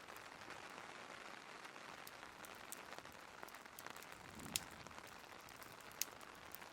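Faint, steady rain hiss mixed with a crackling fireplace: scattered small crackles and two sharp pops in the second half.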